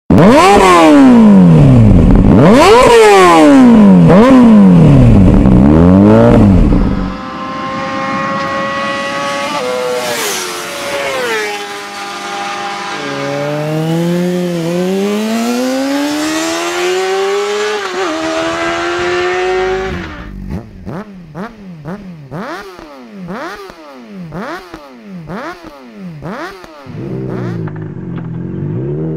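2006 Honda CBR600RR inline-four engine revved hard several times through its exhaust. It then goes quieter with a slowly rising engine note and a few drops in pitch, follows with a quick run of short throttle blips, and settles to idle near the end.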